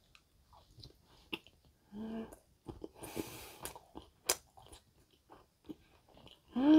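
Close-up chewing of a mouthful of tuna nigiri sushi, soft fish and rice, with small wet mouth clicks and smacks. There is a brief hummed "mm" about two seconds in and a short breath around three seconds.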